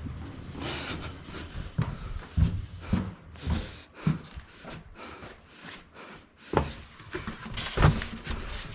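Tyres being handled and moved about: irregular thumps and knocks with rustling in between, several louder thumps spread unevenly through.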